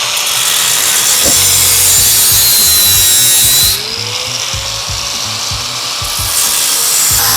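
Power tool cutting through the motorcycle's steel exhaust header pipe. The cut runs loud for about three and a half seconds, then eases off. The motor's pitch sags under load and climbs back once it is freed, and the cutting starts again near the end.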